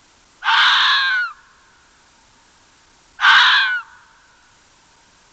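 An animal's harsh, loud call, given twice about three seconds apart, each call just under a second long and falling slightly in pitch, over a faint steady tone.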